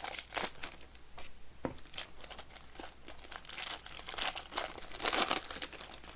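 Plastic wrapping of trading card packaging crinkling and tearing as it is pulled off by hand, in irregular bursts that stop near the end.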